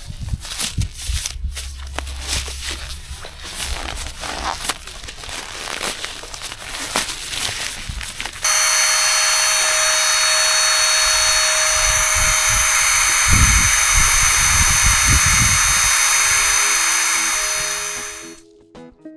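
Clatter and rustling of camping gear being handled while a tent is pitched, with irregular knocks. About eight seconds in, a steady loud whirring, like a small electric motor or blower, starts suddenly and fades out near the end.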